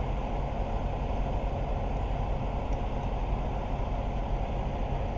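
Heavy truck's diesel engine idling, a steady low rumble.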